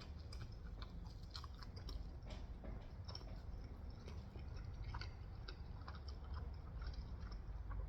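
A person chewing food close to the microphone, quietly, with scattered small mouth clicks.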